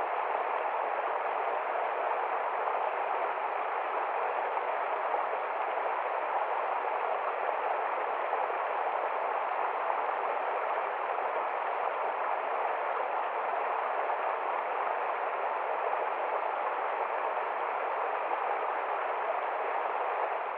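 River water flowing, a steady even rush with no breaks or separate events.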